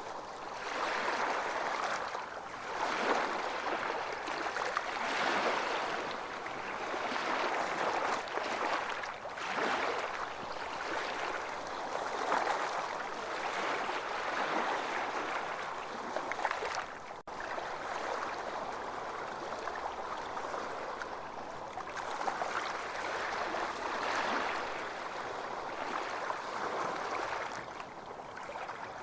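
Ocean waves washing onto a beach: a continuous surf hiss that swells and eases every couple of seconds, with a momentary gap about two-thirds of the way through.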